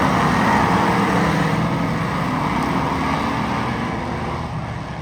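Race car engines running on a dirt oval, a steady drone that slowly fades toward the end.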